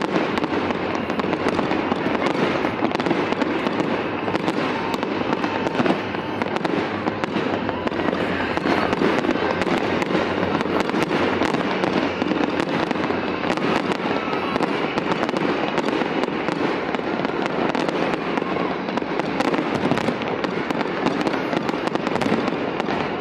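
Fireworks display going off continuously: a dense stream of rapid cracks and bangs that keeps up without a break.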